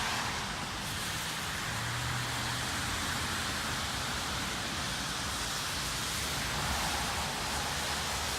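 Steady outdoor background noise: an even hiss over a low rumble.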